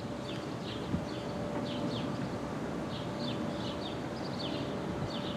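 Small birds chirping in short, quick descending notes, several at a time, over a low steady rumble and a faint steady hum.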